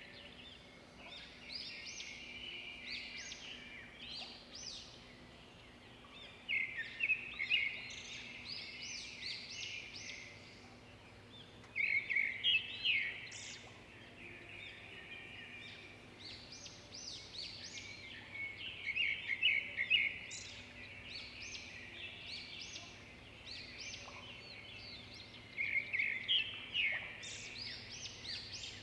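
Birdsong: a songbird chirping throughout, with louder rapid trills about every six or seven seconds.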